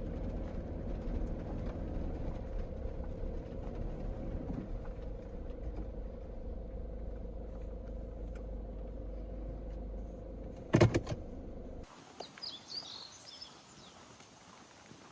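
Camper van engine running steadily with a low rumble and a steady hum, heard from inside the vehicle, with one loud thump about eleven seconds in. Soon after, the engine sound cuts off abruptly to a quiet outdoor background with a few bird chirps.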